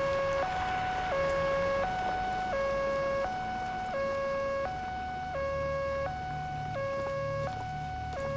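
Ambulance siren sounding a two-tone hi-lo wail, switching back and forth between a low note and a higher note, each held for under a second.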